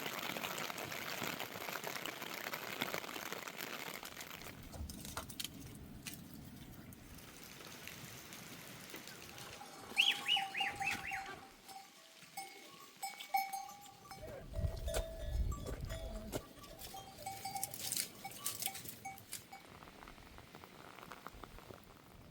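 A herd of goats bleating, mixed with the ringing of a livestock bell, after a few seconds of steady hiss at the start.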